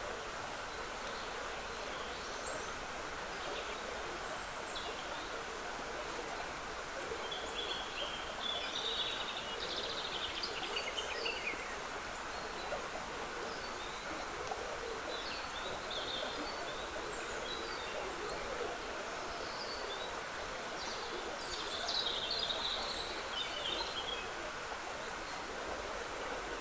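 Small woodland stream trickling steadily, with songbirds singing over it in short high phrases, busiest about a third of the way in and again near the end.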